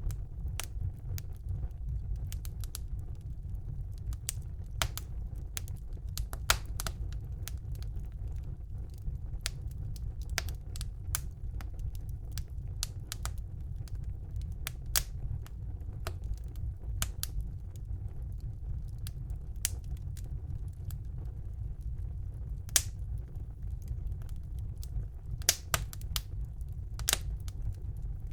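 Wood fire burning in a fireplace: a steady low rumble of the flames with irregular sharp crackles and pops of the burning logs, a few louder pops about six seconds in and near the end.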